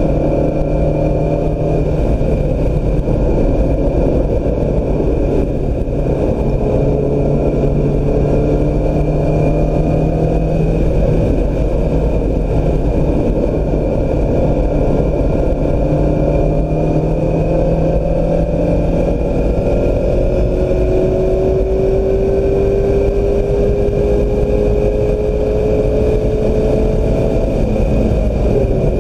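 Mazda MX-5 Miata's four-cylinder engine pulling hard at track speed, its pitch climbing slowly through long runs. A constant rush of wind and tyre noise runs underneath.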